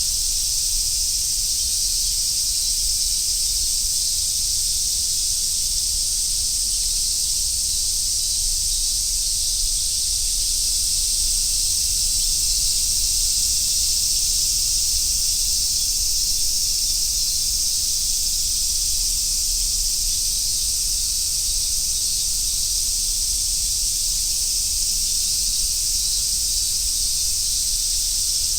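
A dense chorus of cicadas buzzing in a steady, high-pitched, unbroken drone that swells slightly midway, with a faint low rumble underneath.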